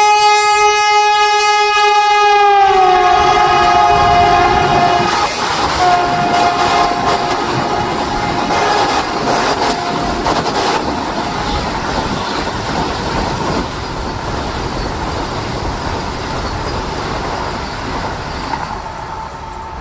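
Vande Bharat Express trainset sounding a loud horn as it approaches. The horn drops in pitch about three seconds in as the train passes, and a second, lower blast comes about six seconds in. The rushing noise and wheel clatter of the passing train follow and slowly fade.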